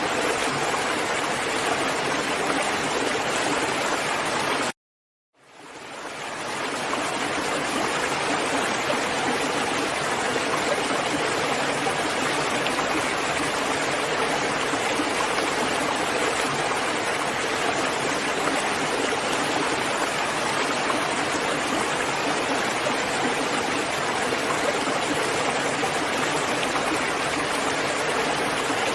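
Steady rain, an even hiss. About five seconds in it cuts out completely for half a second, then fades back in over a second or so.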